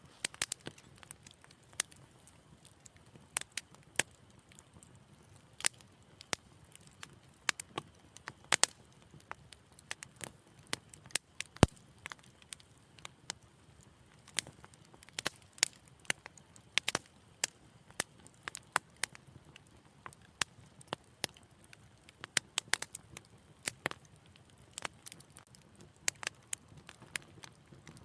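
Wood fire crackling in a fireplace: irregular sharp pops and snaps, several a second at times, over a faint low hiss of burning. One pop about a third of the way in is louder than the rest.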